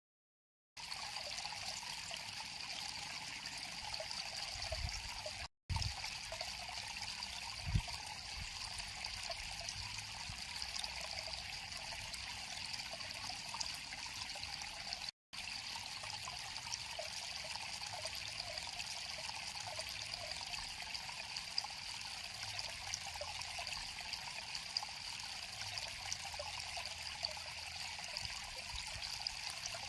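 River or stream water flowing and trickling steadily over stones, an even rushing splash. The sound cuts out to silence briefly twice, and there are a couple of faint low thuds.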